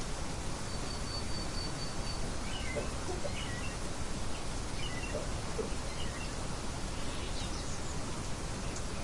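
Steady hiss of rain with faint songbirds over it: a short, rapid, high trill about a second in, then a few scattered chirps in the middle.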